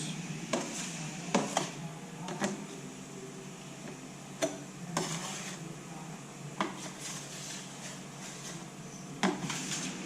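Fairing compound being stirred and mixed in a container: irregular scraping and a dozen or so short knocks of the mixing tool against the container's sides, over a steady background hiss.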